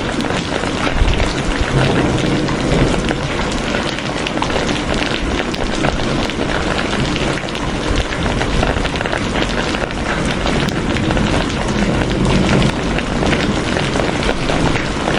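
Steady rain falling: a dense, even hiss with many individual drops ticking on a surface.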